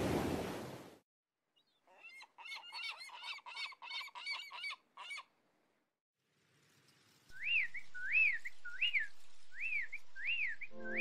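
Bird calls. First comes a quick run of about a dozen short calls. Then, from about seven seconds in, a whistled note that rises and falls repeats about twice a second. Surf fades out about a second in.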